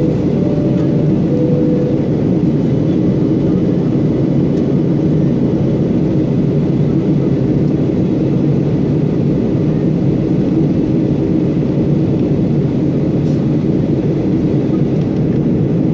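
Steady airliner cabin noise: the low, even rush of the engines and airflow heard from inside the passenger cabin during the descent to land.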